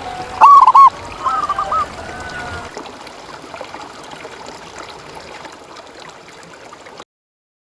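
Zebra dove (perkutut) cooing: a loud phrase of quick arched notes about half a second in, then a softer phrase of the same notes about a second later. Faint background hiss follows until the sound cuts off abruptly near the end.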